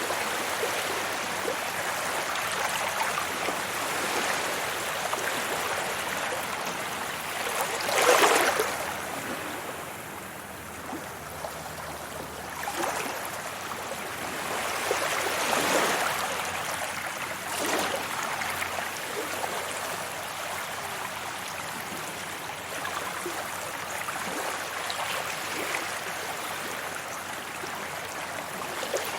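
Sea waves washing onto a beach: a continuous rush of surf with several louder breaks, the loudest about eight seconds in and a few more in the middle.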